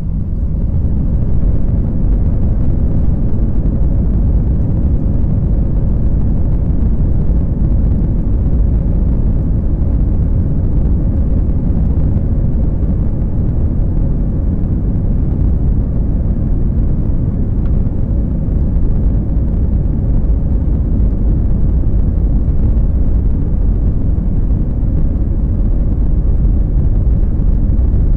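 Jet airliner taking off, heard from inside the cabin: a loud, steady low roar of the engines and airframe that builds over the first second and then holds, with a faint steady hum.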